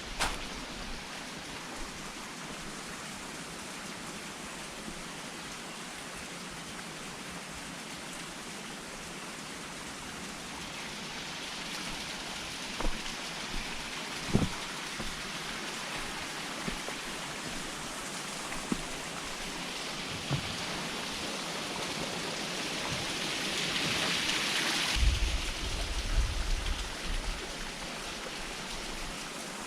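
Running water from a stream: a steady rushing that grows louder through the middle and is loudest about 25 seconds in, then eases, with a few soft thuds.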